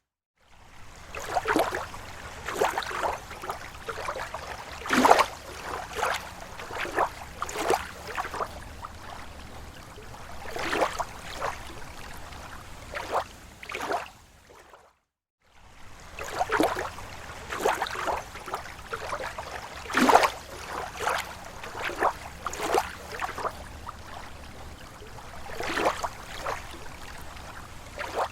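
Small waves lapping against a lake shore: irregular splashes and slaps of water over a low steady wash. The sound cuts out briefly about halfway through, then resumes.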